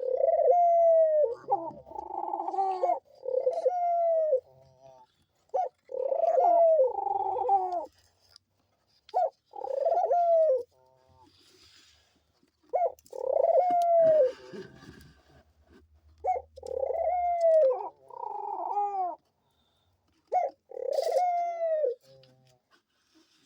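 A pair of pet doves cooing to each other: a run of short coos that rise and fall in pitch, some coming two close together, with pauses between. The cooing is the bonded pair's contented 'chatting'.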